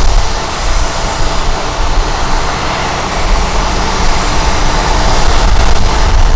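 Jet airliner's engines running as it passes, a steady whine growing louder in the second half, over wind buffeting the microphone with a low rumble.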